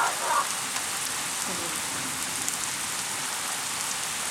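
Heavy rain falling in a steady downpour, a continuous even hiss of drops hitting the ground and surfaces.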